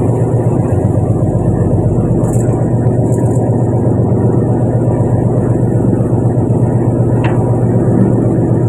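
Fishing boat's engine running steadily with a deep, even drone, with a few faint clicks over it.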